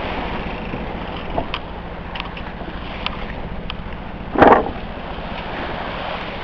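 Wind noise and water rushing past the hull of a sailing yacht underway in a swell, over a low steady hum. About four and a half seconds in, one short loud splash as a wave slaps the boat.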